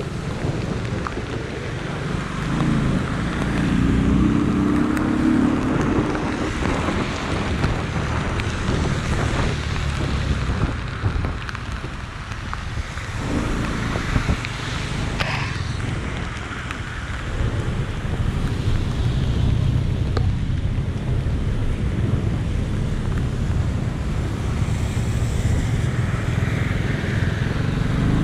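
Rain with the steady rumble of traffic on wet roads and wind buffeting the microphone; a low pitched engine-like hum rises over it a few seconds in.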